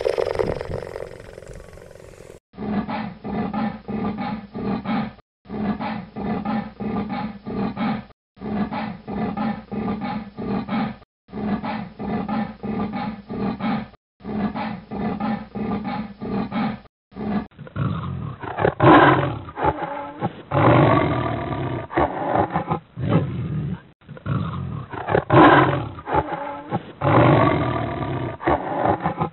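Cheetah vocalizations from several spliced recordings. A short clip comes first, then a pulsing clip of about three seconds that repeats five times with brief silent gaps. From a little past halfway, a different recording brings louder calls, the loudest about a second and a half apart in pairs.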